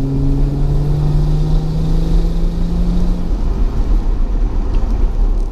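Car engine accelerating as heard from inside the moving car, its note rising slowly in pitch for about three seconds, then settling into a steady drone of engine, tyres and wind.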